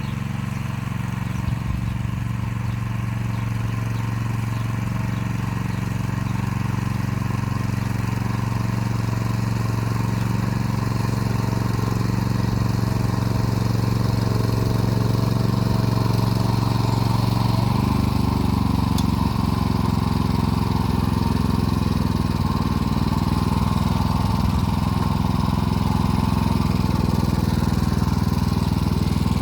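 Motor Sich walk-behind tractor engine running steadily while it pulls an arrow-type hiller along the rows, growing gradually louder. About two-thirds of the way through, the engine note shifts.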